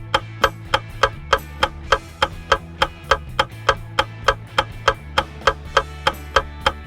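Quiz countdown-timer sound effect: even clock-like ticks, about three a second, over a steady low bass line of background music.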